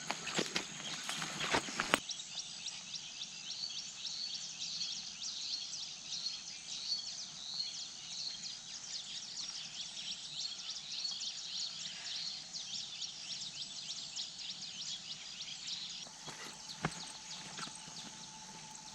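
Rural outdoor ambience: a dense, high chirring of insects with repeated small bird-like chirps. There are a few sharp clicks in the first two seconds and a thin steady tone near the end.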